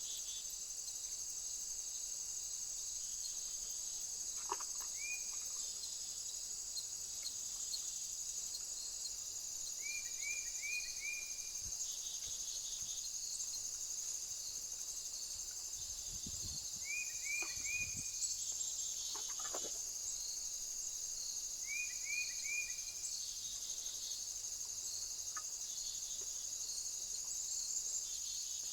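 Crickets or bush-crickets chirring in a steady high-pitched chorus. A bird's short call of three or four quick notes comes in roughly every five seconds.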